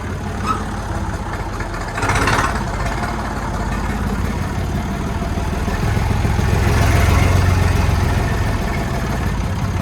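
Massey Ferguson 135's three-cylinder Perkins diesel engine running steadily at low speed, getting somewhat louder about six seconds in. There is a brief burst of noise about two seconds in.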